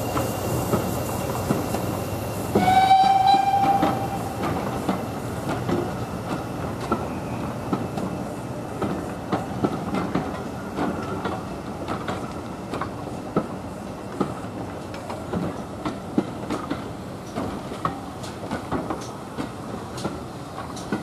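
Passenger coaches rolling past, their wheels clicking irregularly over the rail joints. A thin high squeal stops in the first few seconds, and a short locomotive whistle blast sounds about three seconds in.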